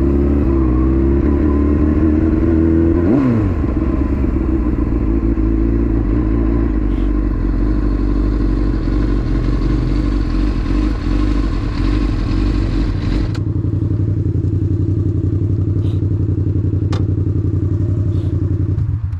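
Motorcycle engine running steadily while riding. Its pitch dips and climbs again about three seconds in, and about thirteen seconds in it settles to a duller, steadier note.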